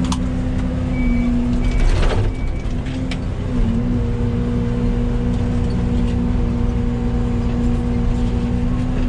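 Yanmar ViO80 mini excavator's diesel engine running steadily under working load, its note dipping briefly about three and a half seconds in before holding steady. Three short high beeps sound between about one and two and a half seconds in.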